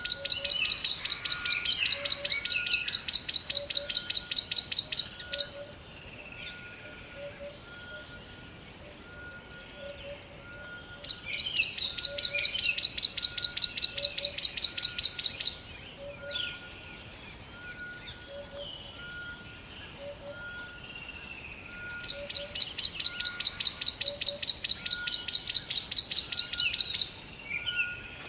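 Forest soundscape with three bursts of a loud, rapid, high-pitched pulsing trill, each about five seconds long and some ten seconds apart. Between them are scattered short bird chirps and a faint, regular series of short peeps.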